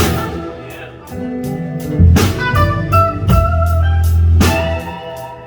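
Live blues-gospel band playing an instrumental passage: an electric lead guitar picks a melodic line over bass and drums, with heavy drum and cymbal accents about two seconds in and again near four and a half seconds.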